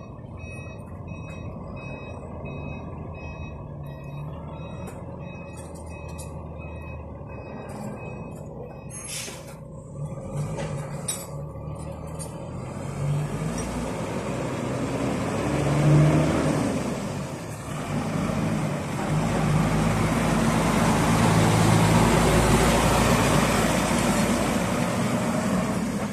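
Diesel engine of a tractor truck (Cummins 430 hp) idling while a repeating high beep sounds. There are a few short hisses about nine to eleven seconds in. The engine then revs up and back down around sixteen seconds, and runs louder and steady from about nineteen seconds on.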